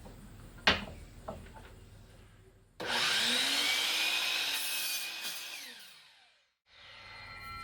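Power saw cutting through a wooden board: the saw starts suddenly, cuts for about three seconds, then its motor winds down and fades. Two light knocks of handling the wood come before it.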